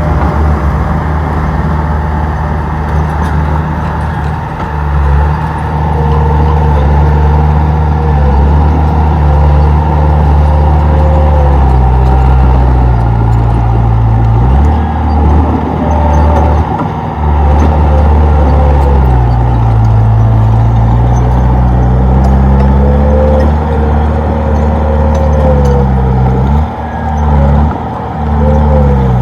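Komatsu D31P crawler bulldozer's diesel engine working, loud and continuous. Its pitch rises and falls as the load changes, with a couple of brief dips in level.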